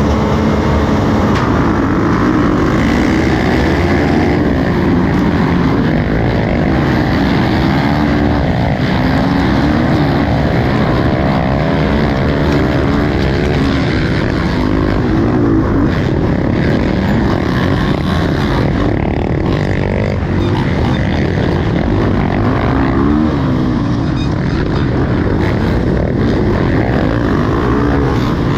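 Motocross bike engine running loud and continuous, its revs rising and falling again and again.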